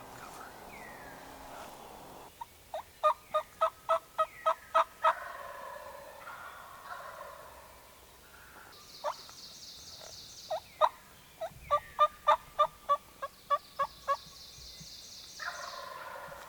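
Turkey yelping: two runs of short, sharp notes at about three a second, the first a couple of seconds in and a longer one past the middle.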